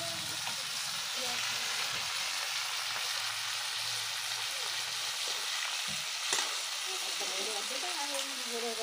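Crabs frying in hot oil in an iron kadai: a steady sizzle, with a brief knock about six seconds in.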